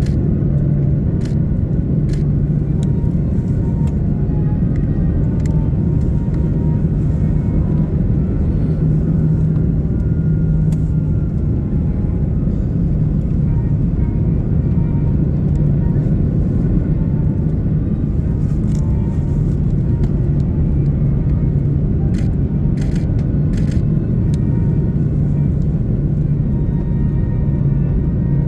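Steady cabin noise inside an Airbus A330-300 in flight, with airflow and its GE CF6-80 engines running evenly under a low hum. A few light clicks or rattles come about three-quarters of the way through.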